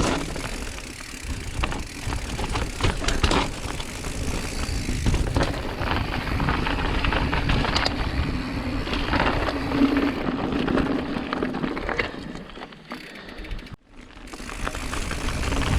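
Mountain bike being ridden over rough ground: tyre noise and rattling, clattering parts, with a brief near drop-out about fourteen seconds in.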